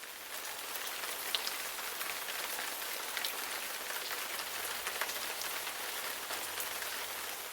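Steady rain falling, an even hiss with scattered small drop ticks, rising to full level within the first second.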